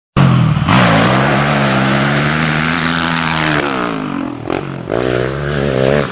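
An off-road vehicle engine running hard at high revs, easing off about three and a half seconds in, then revving up again near the end. The sound starts and stops abruptly.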